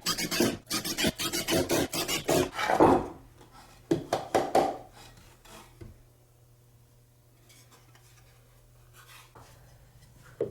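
Wood being abraded by hand in quick back-and-forth strokes, about three a second, then a shorter run of strokes about four seconds in.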